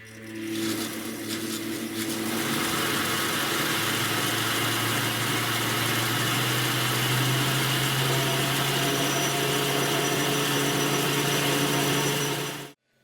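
Electric motor-driven power tool starting up and running steadily, with a hum that rises slightly in pitch as it comes up to speed over the first couple of seconds and a strong hiss over it; it cuts off abruptly near the end.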